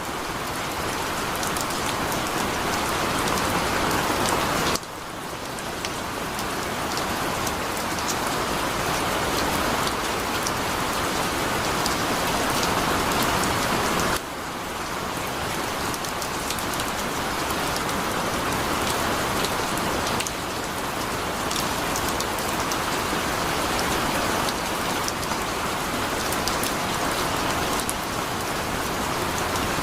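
Heavy rain falling steadily, a dense hiss of drops with fine pattering on top. The level dips sharply a few times and swells back up.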